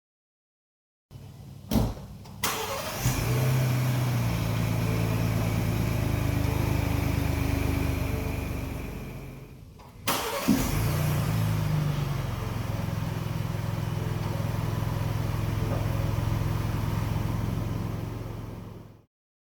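Ford Bronco engine starting after a couple of sharp clicks, then running steadily. The sound breaks off abruptly about ten seconds in, and after another knock the engine is heard running steadily again.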